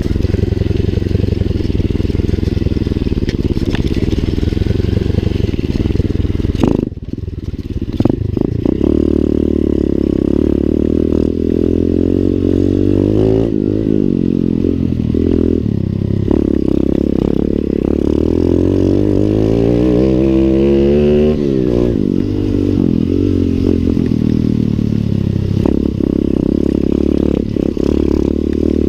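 Lifan 125 cc pit bike's single-cylinder four-stroke engine under way, its revs climbing and dropping again and again as the rider works the throttle and gears. There is a brief throttle-off about seven seconds in, and stronger rises and falls in the middle.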